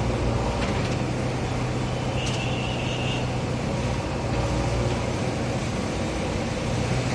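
A JCB earthmover's diesel engine running steadily while digging. A brief high squeal comes about two seconds in, and a few faint clanks are heard.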